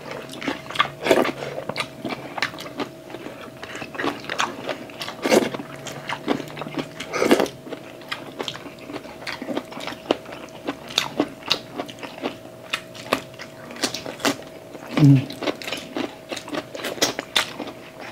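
Close-miked eating sounds: two people chewing and biting chicken adobo, pork spare ribs and fresh cucumber slices, with irregular wet smacks and crunches. A faint steady hum runs underneath.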